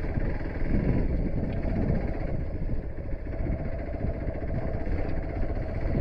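Motorcycle engine running while riding over a rough road, its level rising and falling.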